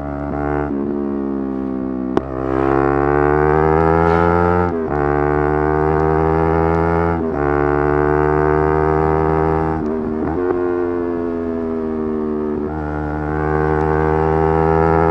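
Yamaha R3's 321 cc parallel-twin engine pulling at high revs, the pitch climbing through each gear and dropping briefly at each of about six quick gear changes. A short sharp click comes about two seconds in.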